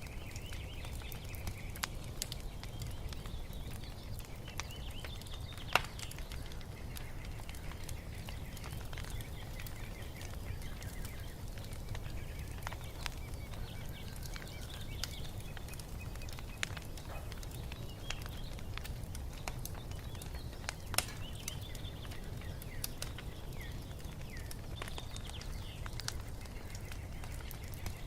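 Wood fire crackling in a fireplace, with a steady low rumble, scattered small ticks and two sharp pops, one about six seconds in and one about twenty-one seconds in. Small birds chirp repeatedly over it.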